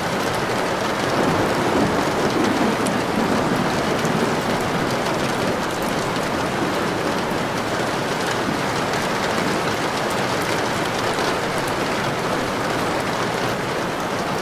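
Steady heavy rain falling and pattering on a surface, an even hiss with scattered drop ticks.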